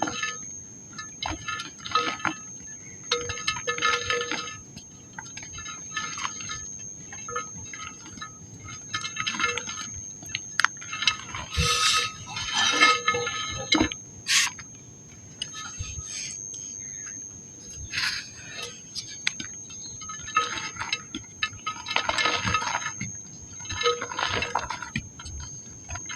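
Dry pink mud crumbling, with scattered sharp crackles, heard under repeated short bursts of high-pitched tones and a faint steady high whine.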